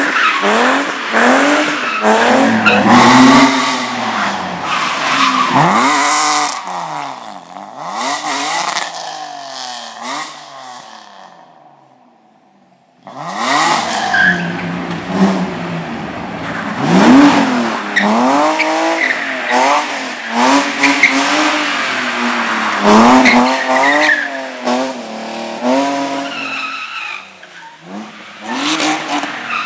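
Slalom cars driven hard through a course: engines revving up and dropping back again and again as they accelerate, shift and brake, with tyre squeal. The sound fades away near the middle, then another car starts suddenly about a second later and runs the same way.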